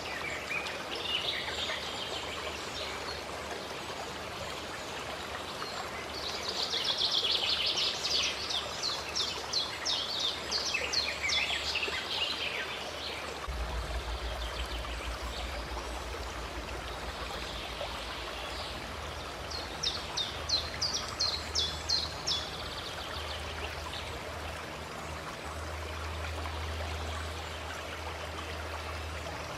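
A stream flowing with a steady rushing hiss, while a songbird sings two bouts of rapid, repeated high trilled notes, one several seconds long and a shorter one later.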